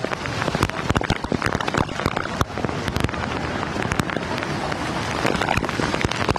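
Heavy rain falling, a dense hiss with frequent sharp crackles of drops hitting.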